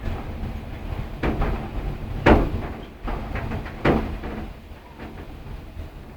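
Wind buffeting the microphone with a low rumble, broken by three sharp bangs, the loudest about two seconds in.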